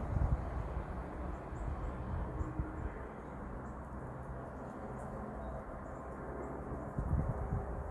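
Steady low outdoor rumble with faint high ticks, and a low thump at the start and again about seven seconds in.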